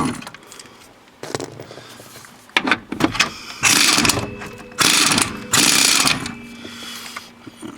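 Hand socket ratchet on a long extension clicking in several short bursts as bolts are backed out, with a few separate clicks and knocks between the bursts.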